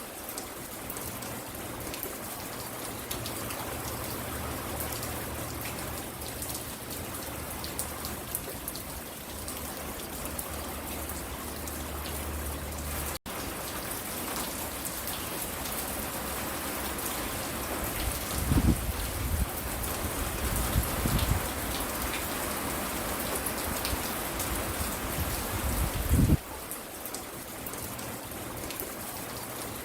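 Steady rain falling, with many small drops pattering and ticking. A few low thuds come about two-thirds of the way through and again near the end.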